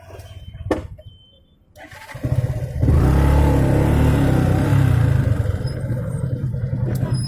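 Motorcycle engine starting about two seconds in after a brief low rumble and a click, then running steadily; it eases slightly about three seconds after catching.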